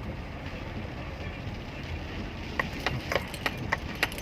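Steady road and engine noise of a car on the move, with a run of sharp, irregular clicks a bit over halfway in.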